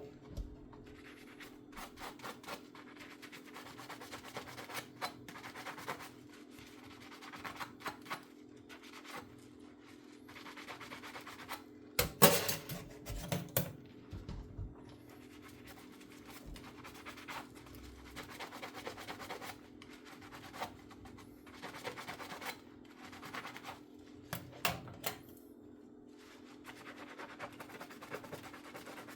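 Dishes being washed by hand at a kitchen sink: sponge scrubbing and scraping, with scattered clinks of dishware and a louder clatter about twelve seconds in.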